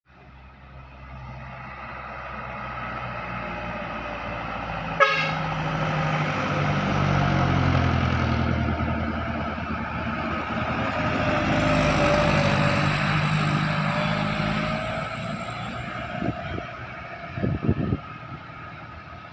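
Heavy truck engine running and labouring, its sound swelling and easing, with a vehicle horn tooting; a sharp click about five seconds in and a few short knocks near the end.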